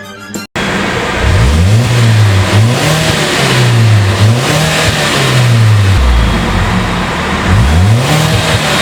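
Volvo S80 T4's 2.0 turbocharged GTDI four-cylinder engine revving through a full aftermarket exhaust system, the engine note climbing and falling several times, with one longer drop to a low note about six seconds in before it rises again. A brief stretch of violin music cuts off sharply about half a second in.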